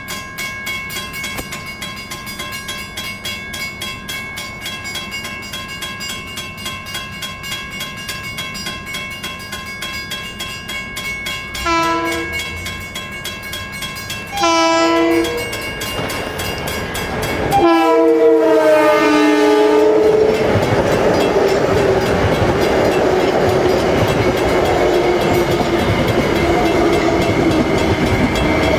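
A passing train's air horn sounds two short blasts, then a long blast whose pitch drops as the train goes by. The loud, steady noise of the train running past follows. Before the horn there is a fast, steady ringing over steady tones.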